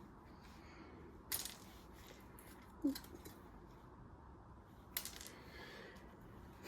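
Three short faint clicks or knocks against quiet room tone, the middle one with a brief squeak.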